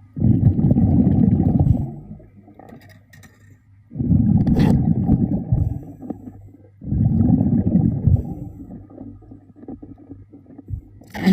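A diver's exhaled breath bubbling out through the breathing regulator underwater, a low rumbling gurgle. It comes in three bursts of about two seconds each with quiet gaps for inhaling between them, and another begins right at the end.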